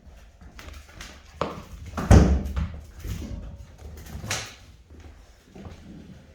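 Rottweiler puppies scuffling and playing at close range: irregular thumps, scrabbling and rustles, loudest about two seconds in.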